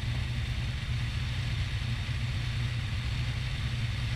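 Cessna 150's Continental O-200 four-cylinder engine and propeller droning steadily in flight, heard from the cabin.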